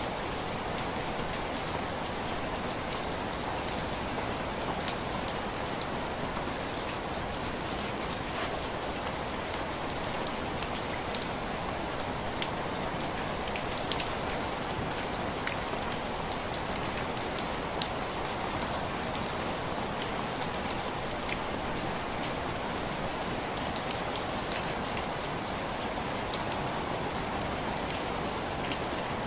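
Steady rain tapping on window glass: an even hiss with scattered sharper ticks of single drops.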